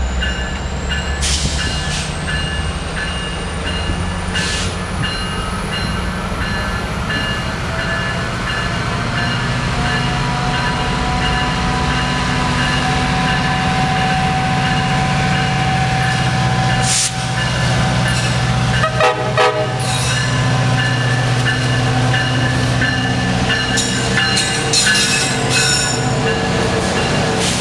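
GO Transit MPI diesel locomotive running, with its bell ringing in a steady repeating beat and its horn sounding.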